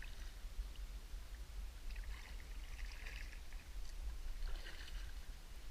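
Kayak paddle strokes in creek water: two splashy dips and drips of the blade, about two and four and a half seconds in, over a steady low rumble.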